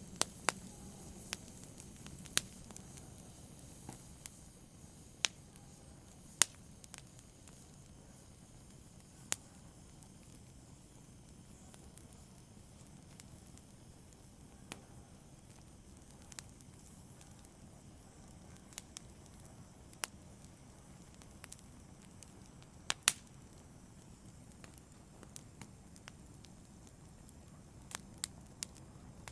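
Fire burning in a fireplace, crackling: irregular sharp snaps and pops over a low steady rustle of flames, with a few much louder pops scattered through.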